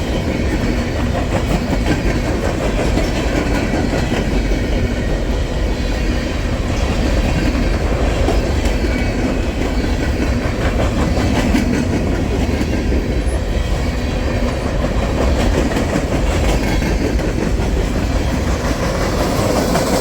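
Freight train cars rolling past: a loud, steady rumble of steel wheels on rail with the clickety-clack of wheels passing over rail joints.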